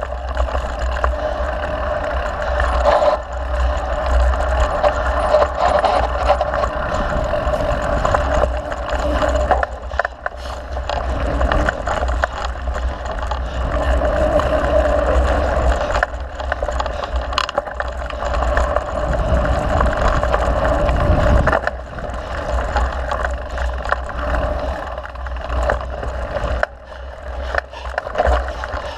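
Mountain bike being ridden along a dirt trail: wind rushing over the bike-mounted camera's microphone with a steady low rumble, tyre noise and short rattles and knocks from the bike over rough ground.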